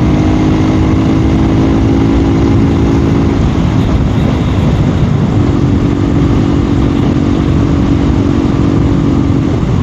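2024 KTM Duke 390 single-cylinder engine running steadily at riding speed, under heavy wind noise. Its engine note drops away for a couple of seconds around the middle, then comes back.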